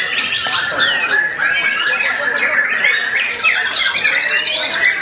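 White-rumped shamas singing hard against each other, several birds at once: a dense tangle of loud whistles, sweeping notes and chatter, with a fast rattling trill a little past the middle.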